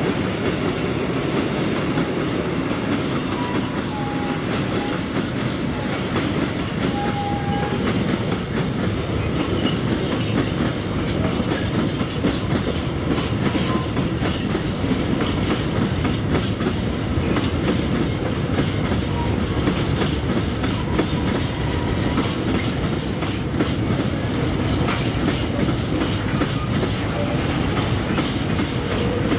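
Freight train rolling past, its wagon wheels clicking steadily over the rail joints. A thin high-pitched wheel squeal sounds through the first several seconds.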